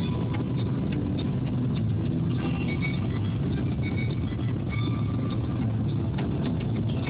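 Steady road and engine rumble inside a moving car's cabin, with a car radio playing faintly over it.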